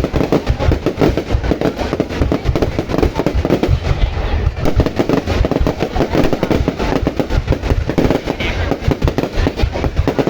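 Fireworks display going off in a rapid, unbroken barrage of bangs and crackle.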